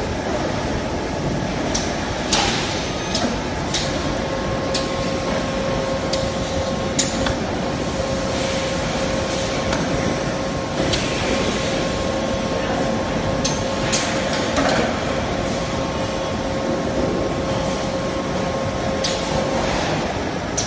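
Automatic riveting line for refrigerator U-shell hinges running: a steady machine hum with a steady tone, broken by irregular sharp clicks and short hisses.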